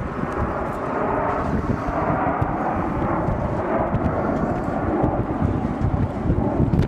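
Display aircraft flying past, its engines giving a steady, loud rumble.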